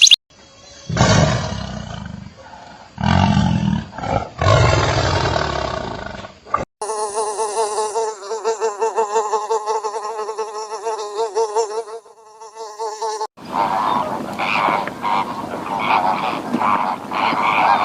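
Different animal calls edited one after another: three loud, rough calls, then a steady wavering buzz, then quick repeated calls about three a second.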